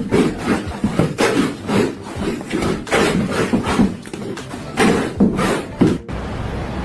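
Rhythmic scraping strokes, about three a second, that stop abruptly about six seconds in.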